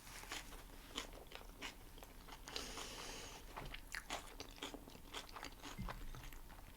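Close-miked chewing and biting of a plant-based Impossible burger: irregular soft crunches and wet mouth clicks, with a brief soft hiss about three seconds in.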